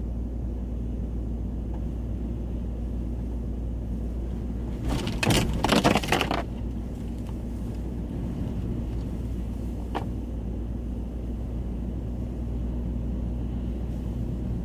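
Steady low hum of a Nissan Titan pickup idling, heard from inside the cab. About five seconds in comes a loud rushing burst lasting about a second and a half, and near ten seconds a single sharp click.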